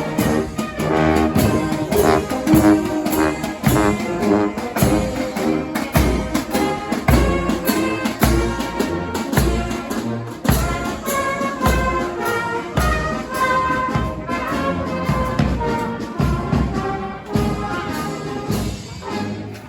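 Brass band playing a tune, with drum hits keeping a steady beat.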